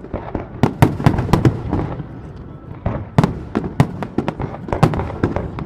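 Fireworks display going off in a rapid barrage of sharp bangs and crackles, many shells bursting close together, with low rumbling echoes between the reports.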